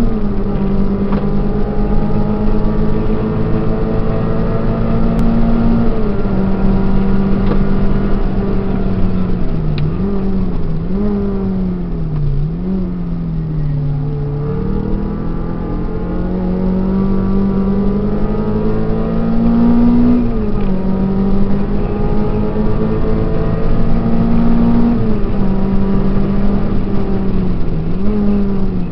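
Peugeot 306's engine heard from inside the cabin while it is driven hard on a circuit. The engine note climbs in long steady pulls, drops sharply at gear changes about six, twenty and twenty-five seconds in, and dips and recovers several times in the middle as it slows and picks up again.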